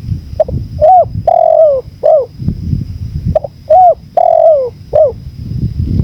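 Spotted dove cooing: two phrases, each of a few short arched coos and one longer coo that falls in pitch. Under them runs a low wind rumble.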